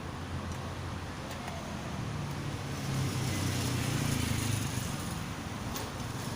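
A motor vehicle engine humming steadily, growing louder about halfway through and then easing off again.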